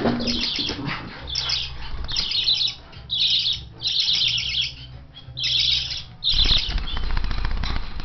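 Young budgerigars chirping in repeated short bursts of rapid chatter, with wings flapping.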